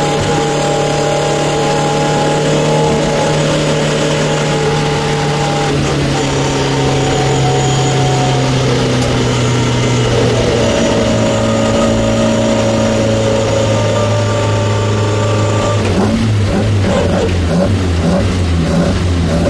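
Opel race car's engine heard from inside the stripped cabin, running at a steady pitch that steps down a couple of times, then turning lower and uneven near the end as the car slows.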